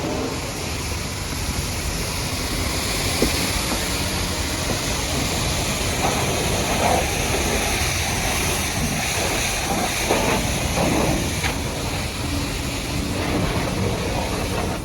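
High-pressure washer jet spraying against a muddy truck: a steady hiss of water over a low machine drone.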